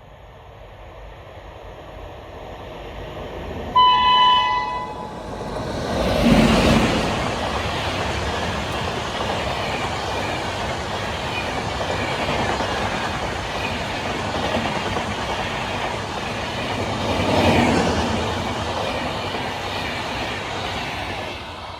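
Express train sounding a short horn blast about four seconds in, then passing close by with a loud rush of wheel-and-carriage noise that swells twice as it goes.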